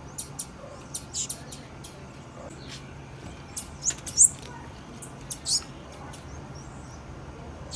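Female blue-black grassquit (tiziu) giving short, high-pitched chip calls at irregular intervals, some with a quick slide in pitch; the loudest comes about four seconds in.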